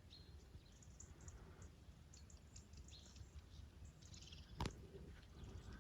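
Near silence outdoors with faint, scattered bird chirps and one short sharp click a little past the middle.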